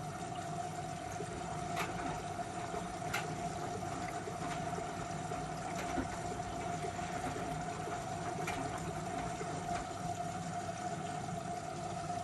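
Miele W1 washing machine running, with a steady whine over water noise in the drum and a few light clicks now and then.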